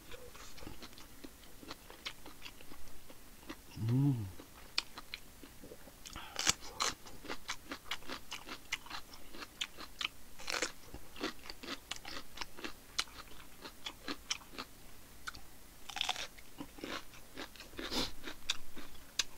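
Crisp biting and chewing of a raw green chili pepper close to the microphone, a run of sharp crunches with a short hummed 'mm' about four seconds in.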